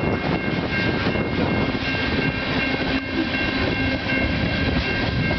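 A CN freight train's cars, covered hoppers and tank cars, rolling past close by: a continuous rumble and clatter of steel wheels on rail, with steady high-pitched tones running over it.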